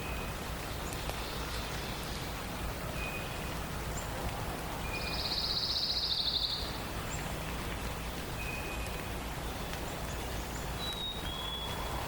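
Songbirds calling over a steady background hiss: brief high whistled notes every few seconds, a loud rapid trill about five seconds in lasting over a second, and a short high whistle near the end.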